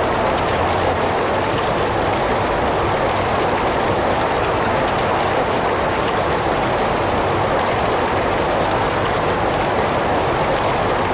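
Heavy rain falling steadily, an even, unbroken hiss of drops with no single drops or thunder standing out.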